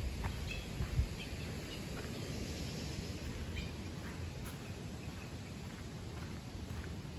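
Forest ambience: faint, scattered short bird chirps over a steady low rumble, with one thump about a second in.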